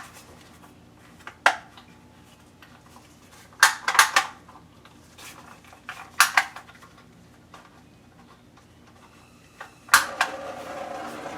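Small metal items clinking and clattering in a few short bursts as tools and fittings are handled. About ten seconds in, a plumbing torch is lit: a sharp click, then a steady hiss of gas flame that keeps building.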